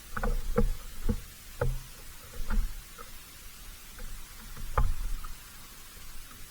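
Irregular knocks and taps of animals moving on a bird feeder close to the microphone, about a handful in the first three seconds and the loudest, dull knock nearly five seconds in, over a steady outdoor hiss.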